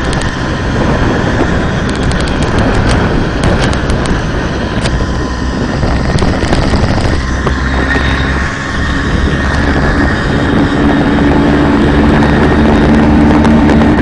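Hercules Prima 5S moped's small two-stroke engine running, with scattered sharp ticks over it in the first few seconds: the odd noises the owner is asking about. From about ten seconds in, the engine settles into a steadier, louder hum.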